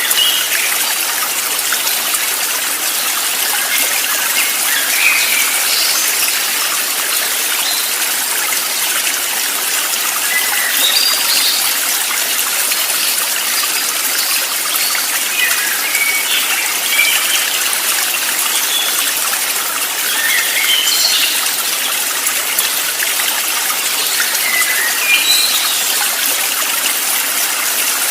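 Steady rush of a flowing stream, with short high bird chirps scattered throughout.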